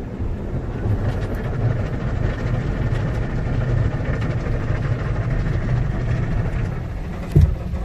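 Tunnel car wash equipment heard from inside the car: a steady rumbling wash of water and cloth washers working over the body. A single thump comes near the end.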